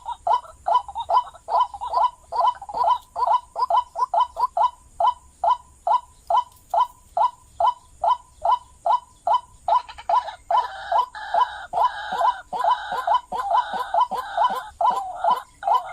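White-breasted waterhen (ruak-ruak) calling: a rapid, monotonous run of short croaking notes, about three a second. About ten seconds in, a harsher, noisier call joins over the repeated notes.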